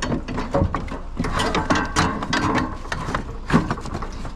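A curbside chair being handled and loaded as scrap: a dense run of clanks, clicks and rattles.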